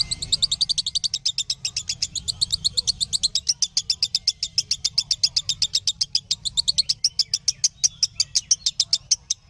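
Lovebird chirping in one long unbroken run of rapid, evenly spaced high chirps, about eight a second.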